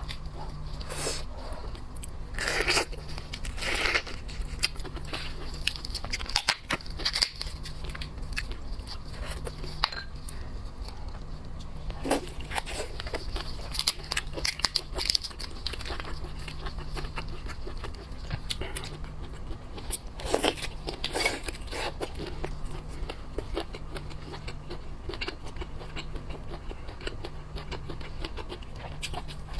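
Close-miked eating of boiled lobster: shell cracking and meat tearing, then biting and chewing. The crunches and crackles come irregularly throughout, over a steady low hum.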